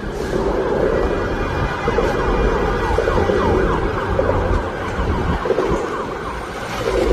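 Emergency vehicle siren wailing in a fast, repeating yelp, over a steady low rumble of traffic.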